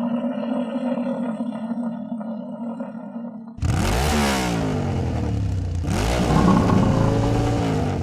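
Engine of a walk-behind rotary tiller running steadily, then revved hard from about three and a half seconds in, its pitch rising and falling twice.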